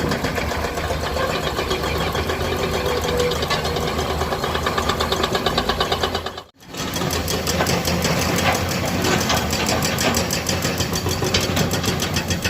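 Komatsu PC200 hydraulic excavator's diesel engine running steadily, with an even, rapid knocking rhythm. The sound cuts out for a moment about six and a half seconds in, then carries on.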